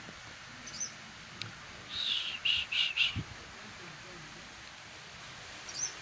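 A small bird chirping: a quick run of four chirps about two seconds in, with single fainter high chirps about a second in and near the end.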